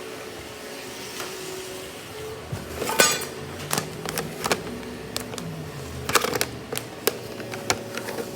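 Robot vacuum running with a steady hum, then a string of sharp clicks and knocks starting about two and a half seconds in, the loudest about three seconds in.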